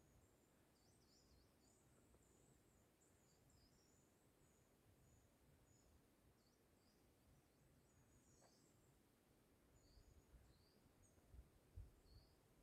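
Near silence, with faint high bird chirps scattered throughout and a few soft low thumps near the end.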